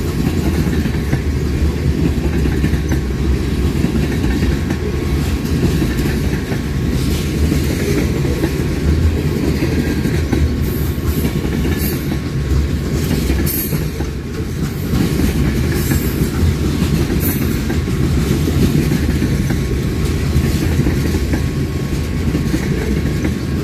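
A train rolling past on the track: railroad cars making a steady, loud rumble of wheels on rail.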